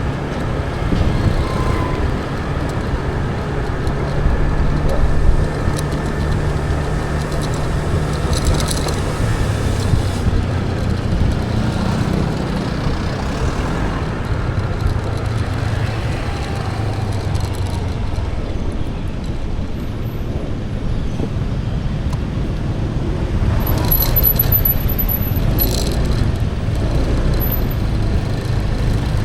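Motorbike engine running while riding through city traffic, with a steady low rumble whose pitch shifts as speed changes.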